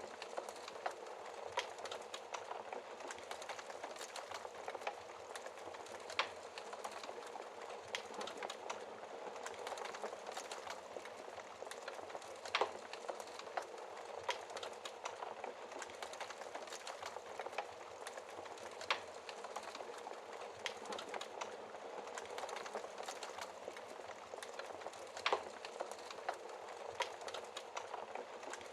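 Fireplace fire burning with a steady soft hiss and constant small crackles, and a louder single pop every few seconds.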